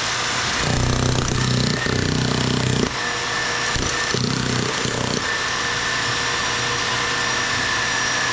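Jackhammer breaking up a concrete slab in short bursts of hammering through the first few seconds. A steady motor whine takes over for the second half.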